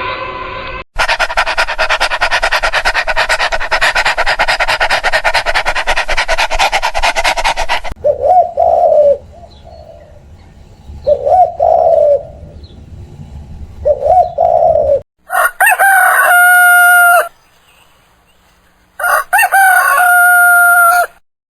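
Domestic fowl calling. A dense, rapid chatter of many birds is followed by three separate calls about three seconds apart. Then come two long, loud crows of about two seconds each, typical of a rooster crowing.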